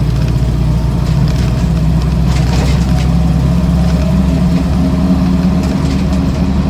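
1966 Land Rover Series IIa 88-inch petrol four-cylinder engine running steadily while the vehicle is driven along the road.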